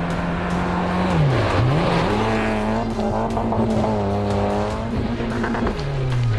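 Rally car engine at high revs: the pitch drops sharply and climbs straight back about a second and a half in, holds steady, then falls away near the end.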